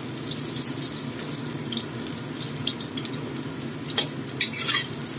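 Eggplant pieces frying in hot oil in a wok, giving a steady sizzle, with a few short sharp pops or clicks about four seconds in.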